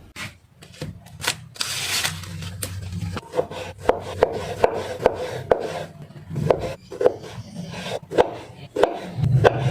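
Kitchen knife chopping food on a wooden cutting board: a scraping rustle at first, then sharp, somewhat irregular knocks, about one or two a second.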